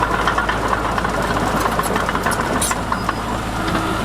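Heavy construction-machine diesel engine running steadily, with scattered clicks and knocks over the hum.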